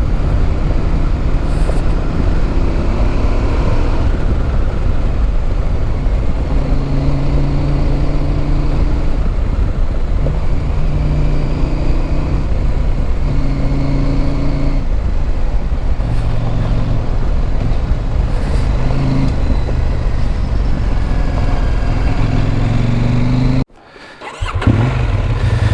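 Motorcycle riding, its engine running under a heavy low rumble of wind noise, the engine note stepping up and down several times with the gear changes. The sound cuts out sharply for about a second near the end, then comes back.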